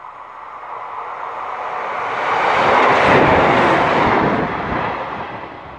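Passenger train passing through the station at speed: a rushing noise of wheels on rail that swells to a peak about three seconds in and then fades.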